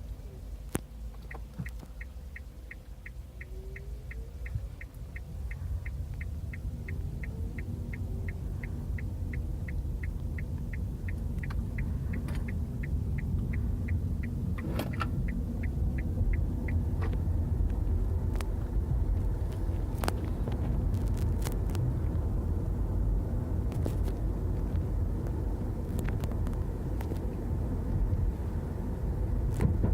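2011 Nissan Leaf electric car being driven, heard from inside the cabin: low road and tyre rumble with no engine note, growing louder as the car picks up speed. For the first half there is a regular ticking about three times a second, and a few single clicks come later.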